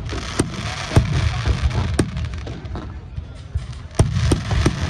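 Fireworks display: about six sharp bangs of shells bursting over a continuous low rumble, with a brief lull a little past the middle.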